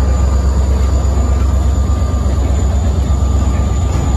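Freight train passing at close range: a steady, loud low rumble from the diesel locomotive pulling away, with its freight cars rolling by on the rails.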